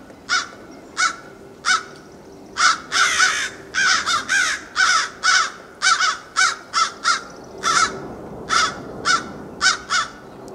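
A bird cawing over and over: about twenty short, harsh caws, roughly two a second, some run together in quick pairs.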